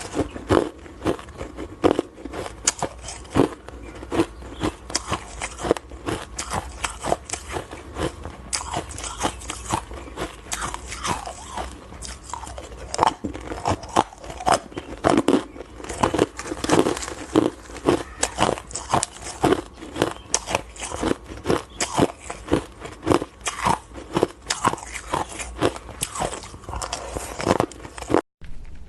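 Ice being bitten and chewed close to the microphone: a dense run of sharp, irregular crunches, several a second.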